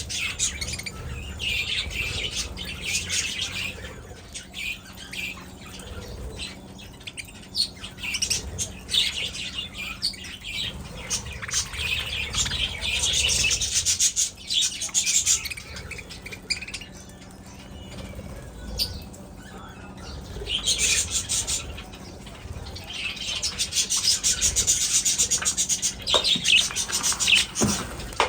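A flock of budgies chattering and chirping, swelling and fading in loudness, with some wing flutter.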